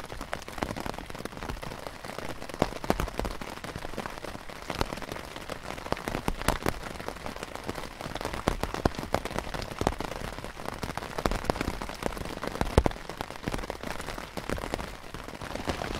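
Steady rain falling, with many sharp taps of individual drops striking close by.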